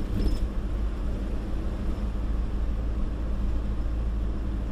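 Steady low drone of a truck's engine and road noise while driving.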